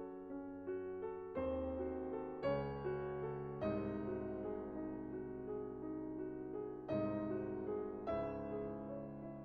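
Slow, gentle piano background music: soft notes and chords struck every second or so, each left to ring and fade.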